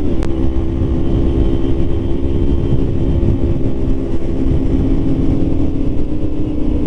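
Motorcycle engine running at a steady pitch while riding, over a low rumbling haze of wind on the microphone; a single short click just after the start.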